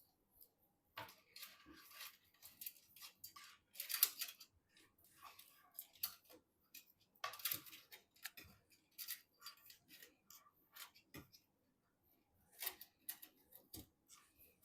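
Hands handling computer parts and packaging during a PC build: an irregular run of short clicks, scrapes and plastic rustles, some in quick clusters.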